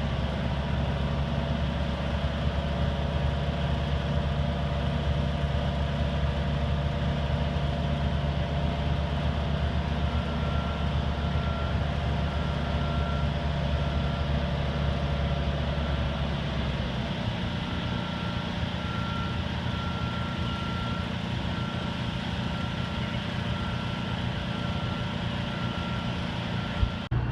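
American Hoist & Derrick 9530 crane's Detroit Diesel engine running steadily, its low note changing a little more than halfway through. A faint high tone comes and goes over the engine in the second half.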